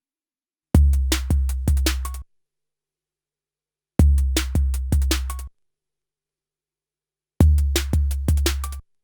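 A 12-bit SP1200 sampler plays back a short sampled drum phrase, a deep bass drum with several sharp hits on top, about a second and a half long. It plays three times with dead silence between.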